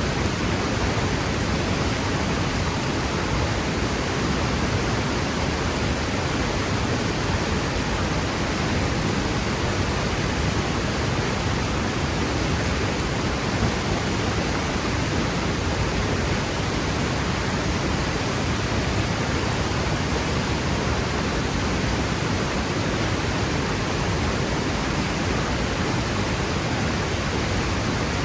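Waterfall crashing into its pool: a steady, powerful roar of falling water.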